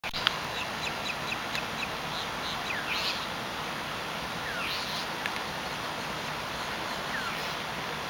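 Small birds chirping. A quick run of short high chirps, about four a second, in the first two seconds, then a few downslurred whistles and harsh chattering calls spaced a couple of seconds apart, over a steady outdoor hiss.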